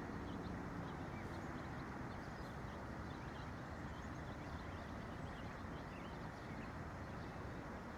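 Many small songbirds chirping in short, high calls that overlap throughout, over a steady low background rush.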